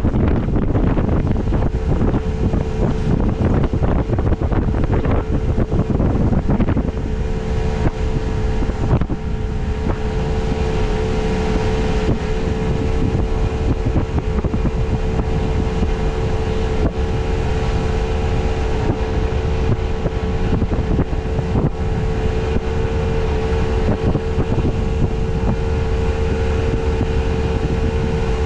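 Boat motor running at a steady speed under way, with wind rushing over the microphone. The motor's steady hum stands out more clearly after about seven seconds, when the wind noise eases.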